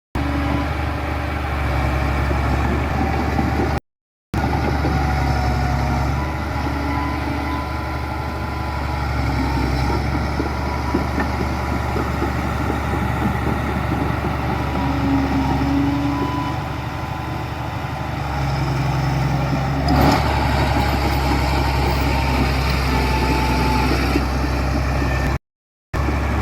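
Heavy diesel engines of construction machinery (bulldozers and dump trucks) running steadily, with brief silent breaks about four seconds in and near the end. A single sharp knock about twenty seconds in.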